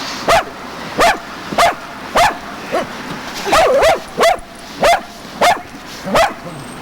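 A dog barking repeatedly, about ten short sharp barks, roughly one every half second or so.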